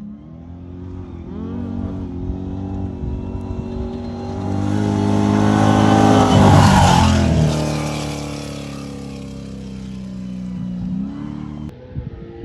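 An off-road race vehicle's engine approaching at speed, passing close about six to seven seconds in with a rush of noise and a drop in pitch, then fading away.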